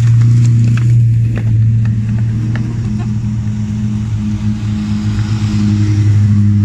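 Small autocross hatchback race cars rolling slowly past at low revs, each engine giving a steady low note. Gravel crackles under the tyres a few times in the first seconds.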